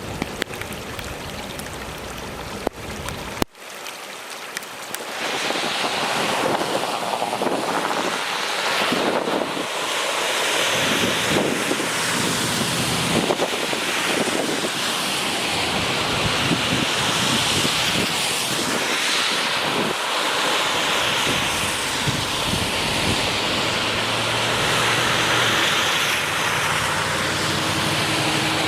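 Steady rush of running water, a loud even hiss with little low end, beginning after an abrupt cut about three and a half seconds in.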